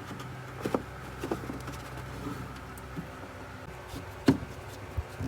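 Scattered clicks and small knocks of parts being handled as a replacement fan-motor capacitor is fitted into an air conditioner's indoor unit, the loudest knock about four seconds in, over a steady low hum.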